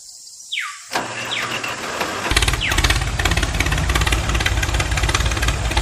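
Three quick falling whooshes, then an engine starts about two seconds in and runs with a steady low rumble and a rapid knock.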